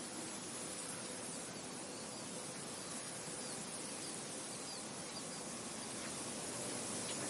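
Steady wind hiss with a few faint, short bird chirps high above it, and a low bed of insect sound.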